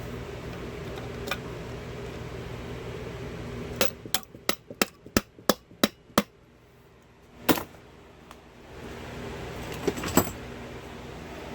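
Sharp metal taps and knocks on a differential housing while its cover is being worked loose: a quick run of about eight taps, then a few single knocks, over a steady machine hum.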